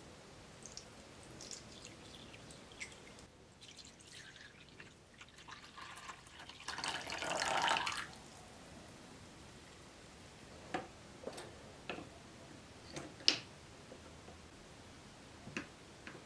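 Liquid splashing and pouring for about two seconds, swelling and then stopping about eight seconds in. Several light clicks and knocks follow, the sharpest one near the end.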